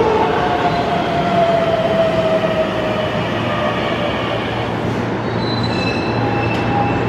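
Keihan electric train decelerating, its motor whine falling slowly in pitch. About five seconds in, steady high squealing tones come in, typical of wheels and brakes as the train slows to a stop.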